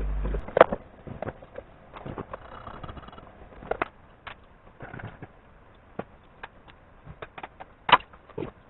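A steady low hum cuts off about half a second in, followed by scattered sharp clicks and knocks, like tools and metal parts being handled, with a louder knock near the start and another near the end.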